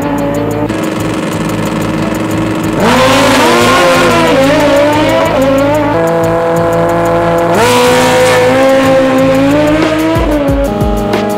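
Drag-racing vehicle's engine held at high revs with tyre squeal; the pitch jumps sharply upward about three seconds in and again near eight seconds.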